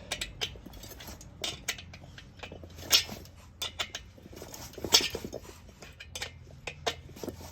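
Metal tools and parts clinking and tapping on a diesel heater's metal housing while a 10 mm screw is taken out: a string of irregular sharp clicks, with two louder clinks about three and five seconds in.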